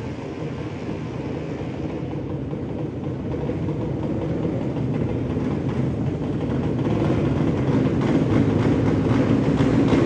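Drag-racing motorcycle engines running, their noise building and growing steadily louder.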